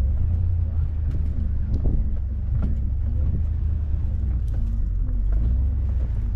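Motor vehicle engine running steadily with a deep low rumble, its note wavering slightly, with a few faint clicks and knocks.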